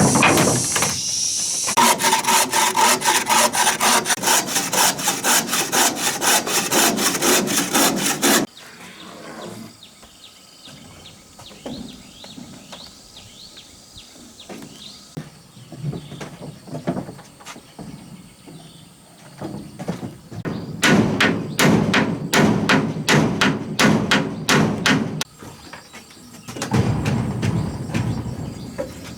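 Hand tool working wood in quick, evenly spaced strokes, in two bouts: one of about six seconds near the start and a shorter one later, with quieter handling sounds between.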